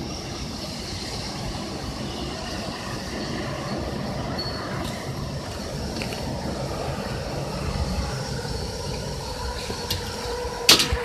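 Steady rushing noise of typhoon wind and rain with a low rumble, swelling a little, and a sharp clack near the end.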